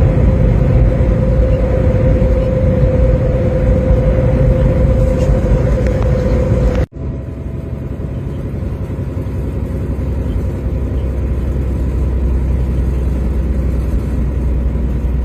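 Steady road and engine noise of a vehicle driving on the highway, heard from inside the cab, with a steady hum over the rumble. About seven seconds in, the sound cuts out for an instant and comes back quieter, without the hum.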